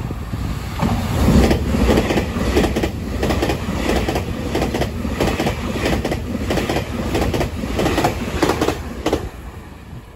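Taiwan Railways EMU3000 electric multiple unit passing at speed: a steady rumble with a rapid, regular clickety-clack of wheelsets over rail joints. The clicking stops about nine seconds in as the last car goes by, and the sound fades.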